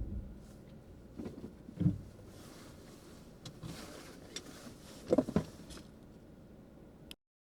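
A car's low road rumble dies away as it stops, followed by a few short knocks and clunks, a double one about five seconds in; the sound then cuts off abruptly.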